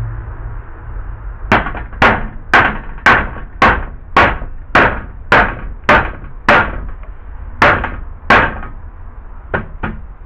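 About a dozen sharp, evenly spaced hammer blows, roughly two a second, then two lighter taps near the end.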